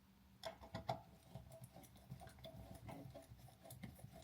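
Faint clicks and small scrapes of a screwdriver turning the screws of a wall outlet being tightened.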